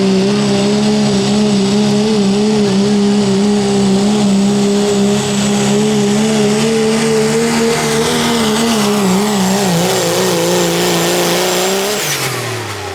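Turbocharged diesel pickup in the 2.6 pulling class running flat out under load while pulling a sled, with a thin high turbo whistle above the engine note. The engine pitch holds steady, wavers and sags in the later seconds as the load builds, then falls away about twelve seconds in as the throttle comes off.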